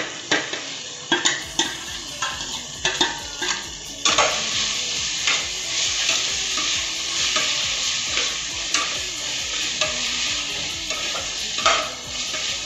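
Chopped coriander and mint leaves frying with onions in ghee and oil in an aluminium pressure cooker: a steady sizzle that gets louder about four seconds in. A metal slotted spatula clinks and scrapes against the pot as the leaves are tipped in and stirred.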